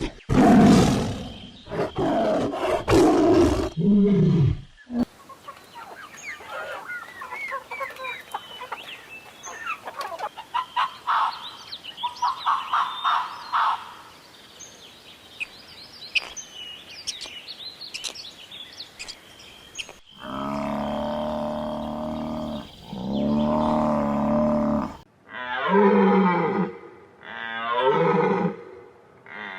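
A run of different animal calls: a big cat roaring for about five seconds, then birds chirping, then two long, low pitched calls, and near the end a series of wavering bleats like a sheep or goat.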